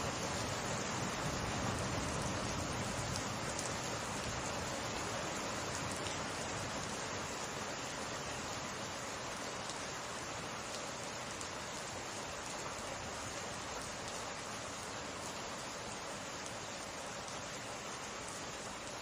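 Summer rain falling steadily as a dense, even hiss of countless drops. It slowly eases a little in loudness.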